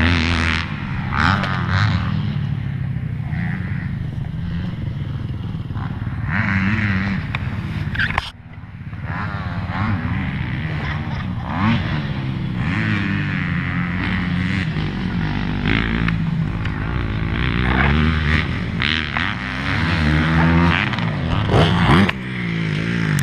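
Motocross dirt bike engine revving up and down as it is ridden, the pitch rising and falling repeatedly, with an abrupt break about eight seconds in.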